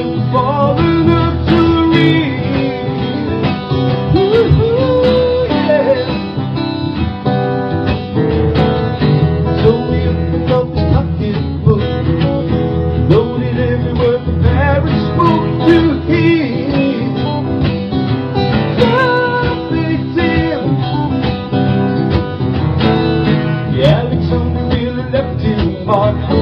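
Live folk/Americana band playing an instrumental passage between verses, with plucked acoustic guitar and a melodic lead line over it.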